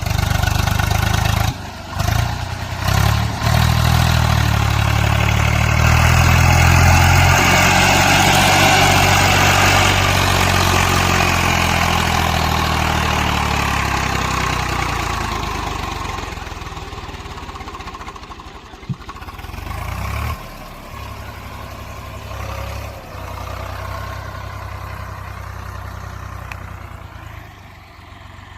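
Swaraj 744 tractor's diesel engine running, loud and steady with a couple of brief dips in the first few seconds, then growing gradually quieter through the second half, with a sharp click about two-thirds of the way in.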